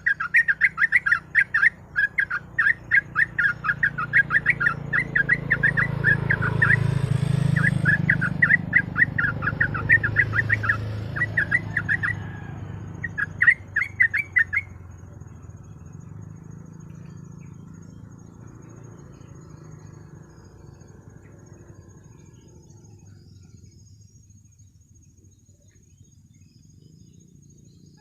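Yellow-vented bulbul (trucuk) calling in fast runs of short, sharp chirps, several a second. The chirping breaks off after about twelve seconds, returns in one more short burst, then stops about halfway through. A low rumbling noise swells and fades beneath the calls in the middle, and after the calls end only faint low background noise is left.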